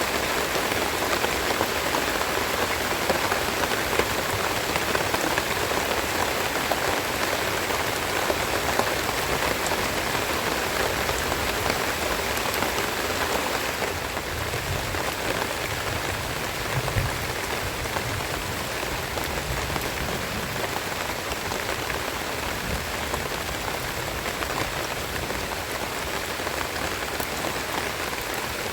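Steady rain falling, a dense even hiss of drops, easing slightly about halfway through.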